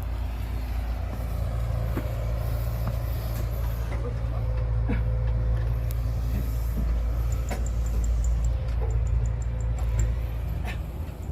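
A heavy engine running steadily with a low rumble. A few sharp clicks sound over it, and about seven seconds in there is a quick run of faint high ticks.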